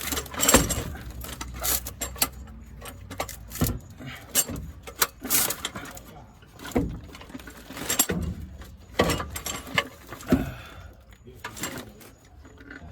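Metal tools and parts clinking and knocking at irregular intervals, a sharp clank every second or so, during hand work on the truck's clutch and transmission.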